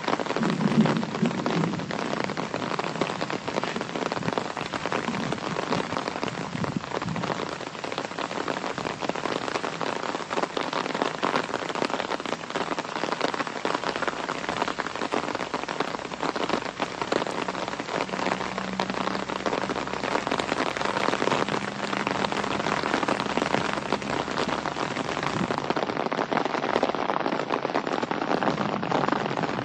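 Steady medium-to-heavy rain falling, a dense patter of many drops hitting close by.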